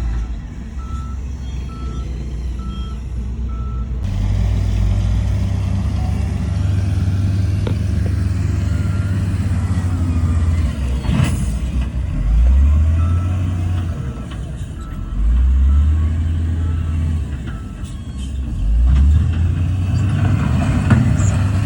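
Diesel engines of heavy earthmoving equipment running, revving up several times, with a reversing alarm beeping about once a second near the start and again in the second half. A single sharp knock comes about halfway through.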